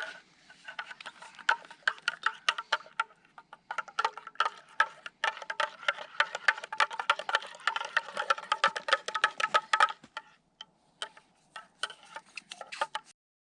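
A spoon stirring hot chocolate in a cup, clinking rapidly against the sides with a short ringing tone on each hit. About ten seconds in, the stirring slows to scattered clinks.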